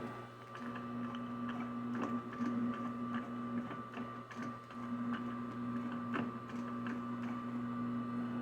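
Sewing machine running with a steady motor hum and faint ticking, stopping for about a second near the middle and then running on.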